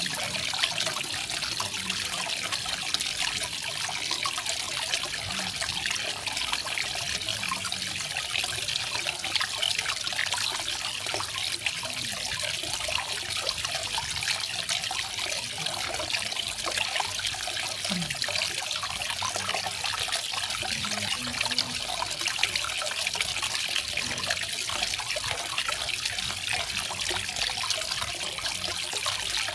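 Small garden waterfall: water splashing and trickling steadily over stones.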